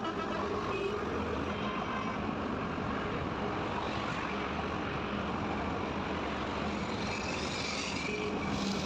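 Steady motorcycle engine, wind and tyre noise of riding along a highway, with a louder stretch of higher hiss near the end.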